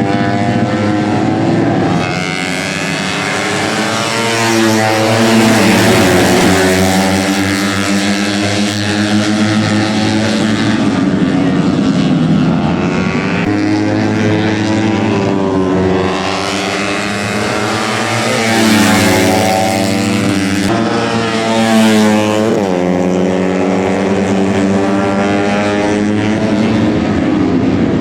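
Several tuned 130 cc four-stroke underbone racing motorcycles running hard, their engine notes overlapping and repeatedly rising and falling in pitch as they accelerate, shift and pass.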